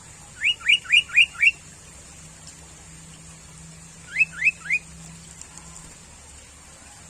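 Sooty-headed bulbul calling: a quick run of five rising notes, then three more about three seconds later.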